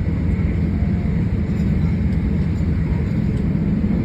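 Steady low rumble of a Class 455 electric multiple unit running along the track, heard from inside the passenger coach.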